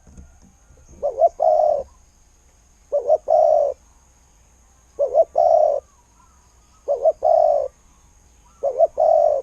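Spotted dove cooing: five phrases about two seconds apart, each a quick double coo followed by a longer, drawn-out coo.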